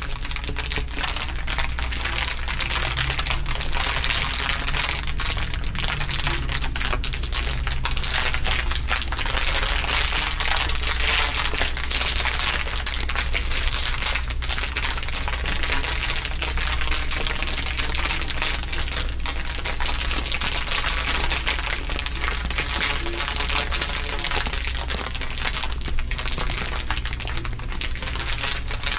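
Several layers of crinkling overlaid into a dense, continuous crackle of many small clicks, with a low steady drone underneath.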